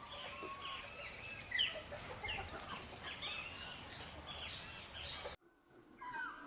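Sanhaço tanagers calling: many short, downward-sliding chirps, overlapping. The sound breaks off abruptly about five seconds in, and the chirps resume shortly after.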